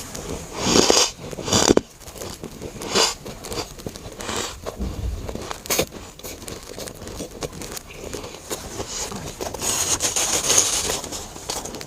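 Close-miked biting and chewing of dry, powdery freezer frost chunks: irregular crunching and squeaky crumbling. Two loud bites come about a second in, and a denser stretch of crunching comes near the end.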